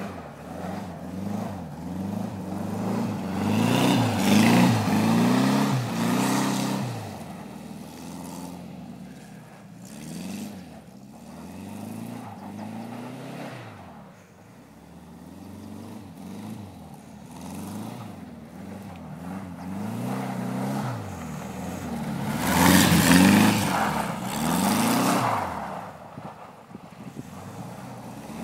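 Classic Volkswagen Beetle's air-cooled flat-four engine revving up and down over and over as the car slides in circles on snow. It is loudest twice, a few seconds in and again past the middle, as the car comes close, and fainter in between while it is far off.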